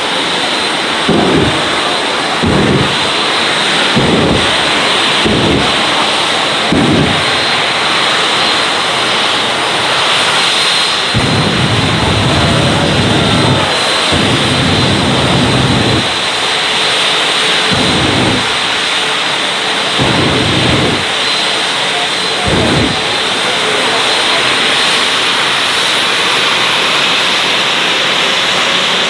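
Jet engine of the Dragon's Fyre 1940 Ford pickup jet truck running loudly and steadily, with repeated deep booming surges every second or two through the first half, then a few longer ones.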